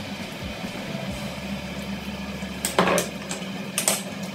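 Kitchen handling sounds at a cooktop: a steady low hum with two short knocks, the louder about three seconds in, as a bottle and pot are handled.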